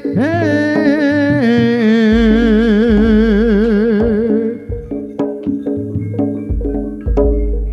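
A Javanese song: a singer holds one long note with a wavering vibrato, which ends about four and a half seconds in. Then struck, pitched percussion notes carry on over a deep bass.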